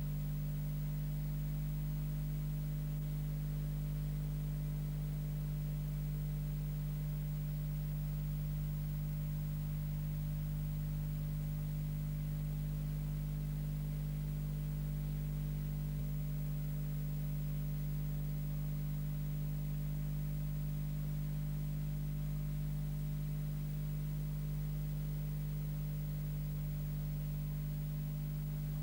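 Steady low electrical hum made of a few fixed tones, unchanging throughout, with no other sound over it.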